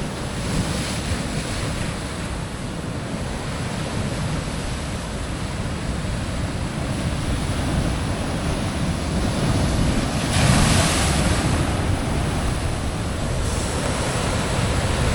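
Ocean surf washing and breaking against a rock ledge in a heavy swell, with wind buffeting the microphone. A louder wave surges through about ten seconds in.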